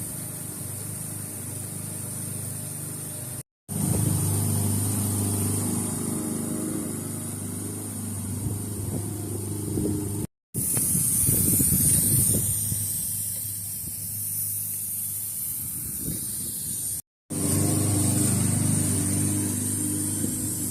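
Garden sprinklers spraying with a steady high hiss, with wind rumbling on the microphone underneath. The sound stops dead three times for a split second where clips are joined.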